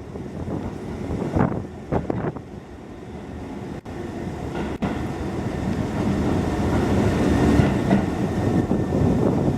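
Hokuso Railway 7260 series electric train heard from inside the car while running, with rail-joint clatter. The running noise grows louder from about three seconds in.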